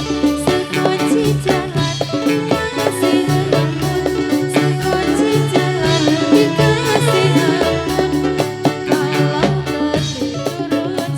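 Live band playing an instrumental passage: a steady drum beat over a repeating bass line, with a melody line on top.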